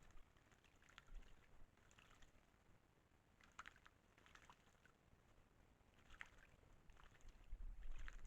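Near silence, with faint scattered ticks and clicks every second or so and a weak low rumble near the end.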